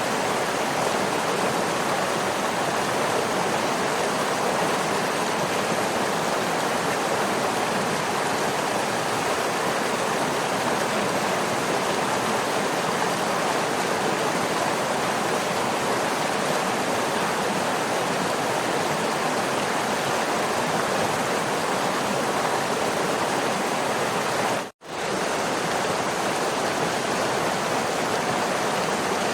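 Waterfall: a steady, even rush of falling water, with one brief dropout to near silence about three-quarters of the way through.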